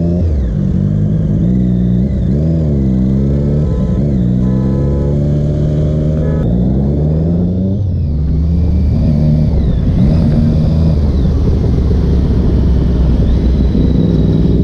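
Triumph Daytona 675R's inline three-cylinder engine under way: it dips and picks up again, pulls up in pitch for a few seconds, then drops sharply at a gear change about halfway through and runs on steadier and lower. Wind noise on the microphone grows in the second half.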